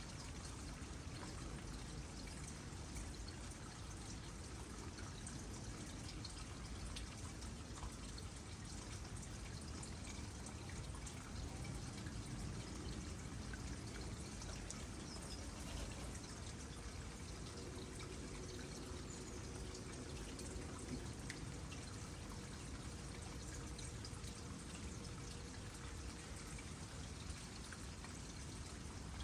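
Water trickling steadily into a small pond, with scattered small drips.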